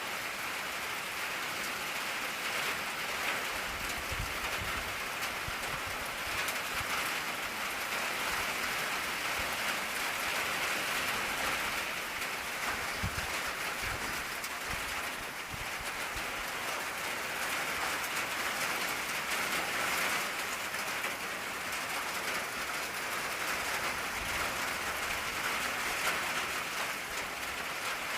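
Steady rain drumming on an old tin roof, a dense even patter with a few soft low thuds here and there.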